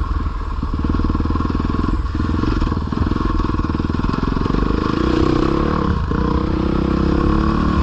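Dirt bike engine running under riding load, its revs rising and falling about two-thirds of the way in as the rider works the throttle.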